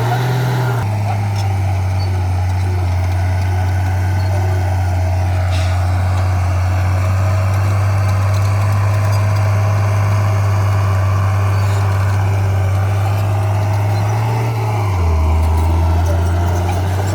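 Heavy diesel engine of earthmoving equipment running steadily. It drops in pitch about a second in and again near the end, as the throttle eases.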